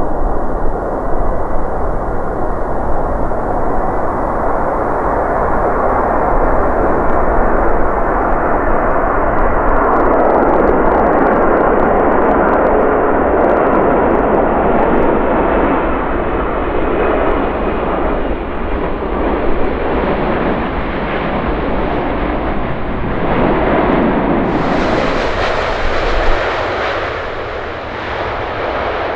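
Boeing 747's four jet engines running loud and steady as the airliner lands, the noise swelling and then easing off.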